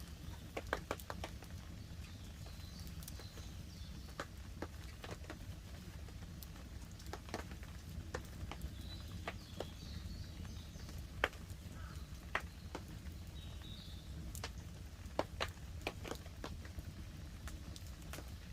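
Wood campfire crackling with irregular sharp pops, one to three a second, over a steady low background of light rain falling on a tarp.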